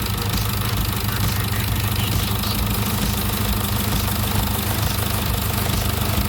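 Jeep Wrangler JK's 2.8 CRD four-cylinder common-rail turbodiesel idling steadily with a diesel clatter. The freshly rebuilt engine is on its second test run, with the air box connected.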